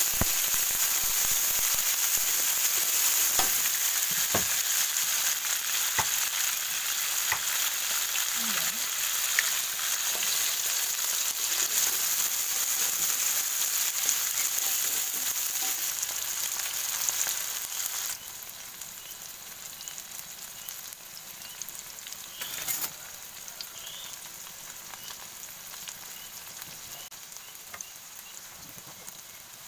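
Hot oil sizzling as chopped tomato, chilies, garlic and shallots with an egg fry in a wok, with a few sharp knocks of a metal spatula in the first seconds. About two-thirds of the way through, the sizzle suddenly drops much quieter and goes on faintly.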